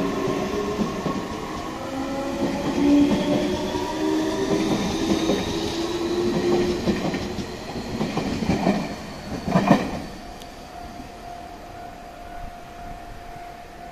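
Tobu 60000 series electric train pulling away from the platform, its traction motors whining upward in pitch as it gathers speed while the wheels clatter over the rail joints. About ten seconds in there is a loud clatter as the last car passes, and then the train sound drops away.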